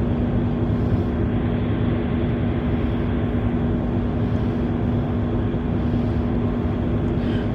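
Tugboat's diesel engine running steadily underway: a constant drone with a steady hum over a low rumble.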